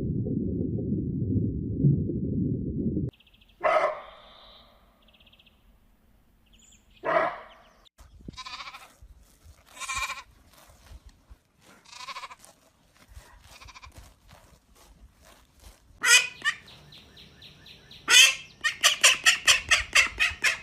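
A low rumbling noise that cuts off suddenly about three seconds in, then goats bleating: single calls a second or two apart, two louder ones near the end. Near the end a rapid, evenly pulsed call starts, about five pulses a second.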